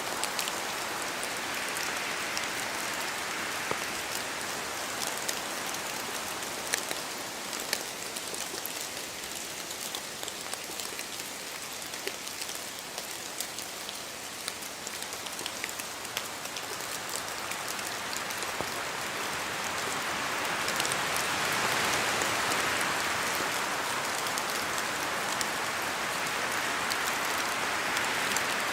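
Steady rain falling on forest trees, with many scattered sharp drips and taps of drops falling from the leaves. A rushing of wind through the trees swells and grows louder in the second half.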